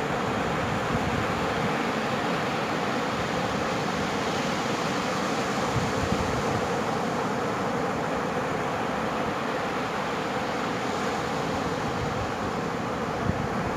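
Steady roar of surf on a sand beach, holding one level throughout, with some wind buffeting on the microphone.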